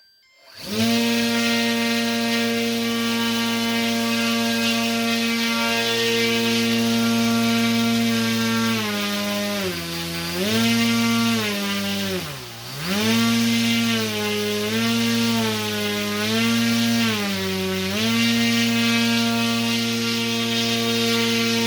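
Brushless motor, run off a 12-volt car battery under radio throttle, spinning up about half a second in and whining at a steady pitch. In the middle the throttle is eased back and opened again several times, the whine falling and rising, once almost to a stop, before it settles back to steady speed.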